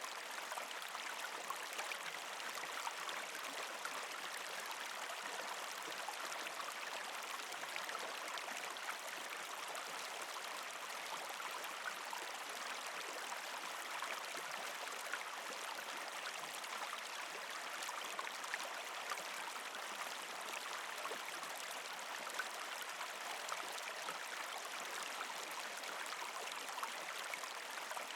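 A partially frozen creek flowing steadily, with water gurgling and trickling over rocks and many small splashes.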